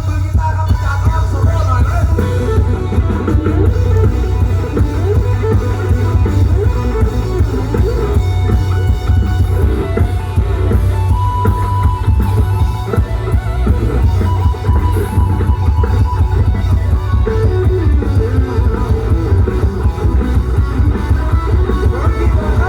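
Live rock band playing an instrumental passage with no vocals: a guitar solo over steady bass and drum kit.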